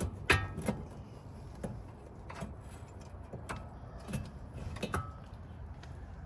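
Metal tools and suspension parts clinking and knocking, about seven irregular clicks with a short metallic ring, the loudest clank just after the start.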